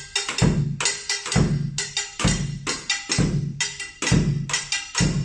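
Kitchen objects played as taiko-style percussion: low booms on a large bucket struck with sticks, about once a second, layered with a scrape-and-hit rhythm and quicker taps on a higher-sounding instrument in a triplet pattern.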